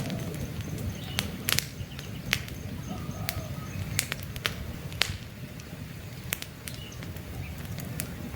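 Campfire burning, wood crackling with sharp, irregular pops over a steady low rumble. Faint bird chirps sound in the background.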